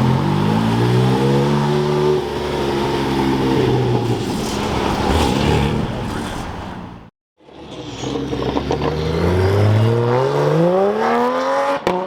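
Porsche 718 Cayman GT4 RS's flat-six engine revving up as the car accelerates away, its pitch climbing then falling back after about three and a half seconds. After a sudden cut a little past halfway, a second sports car engine accelerates hard, its pitch rising steadily for about four seconds.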